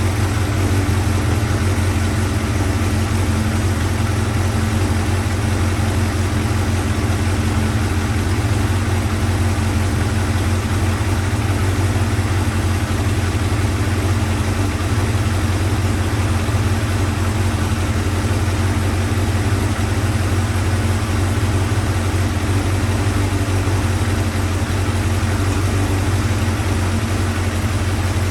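Motorcycle engine idling steadily at an even pitch, with no revving. It is running after a hard, suspect vacuum hose was dealt with, while a vacuum leak that made the idle hang is being traced.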